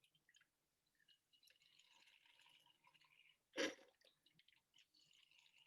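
Very faint trickling and dripping of baby oil being poured into a glass mason jar. One short knock comes about three and a half seconds in.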